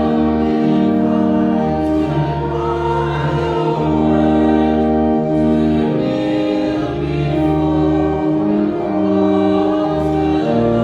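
Congregation singing a hymn with church organ accompaniment, held chords that move to new notes every second or so.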